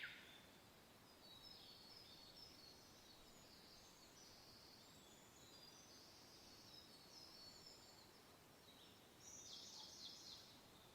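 Faint birdsong: scattered high chirps and twitters over a soft, steady hiss of wind, with a quick flurry of chirps near the end.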